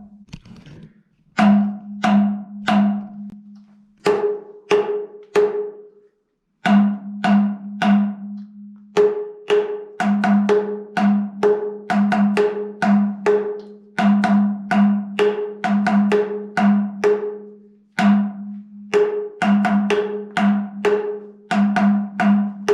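Hollow dolomite stalactites struck in a rhythm with a rubber-tipped metal rod, each strike ringing out as a deep tone. The strikes come about two a second and alternate between a low pitch and one an octave higher, with a brief pause about six seconds in. The sound carries through the cave's sinkholes and resonates through the whole cave.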